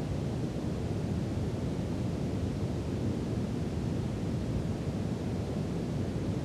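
Steady brown noise: an even, deep rumbling hiss, strongest in the low end and fading toward the highs, with no changes.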